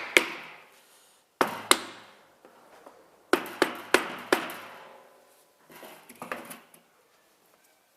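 Wooden hammer tapping the top cover down onto a Daihatsu Sirion gearbox casing, sealing it on its sealant: sharp knocks in short groups of two to four, the last few fainter.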